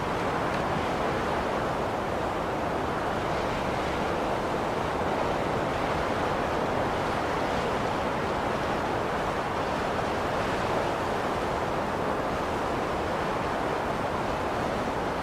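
Blizzard wind blowing steadily, a continuous rushing noise with only slight swells in strength.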